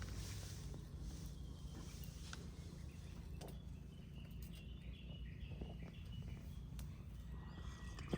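Quiet outdoor ambience: a bird giving a quick series of short chirps for a couple of seconds midway, over a steady low hum, with a few faint clicks.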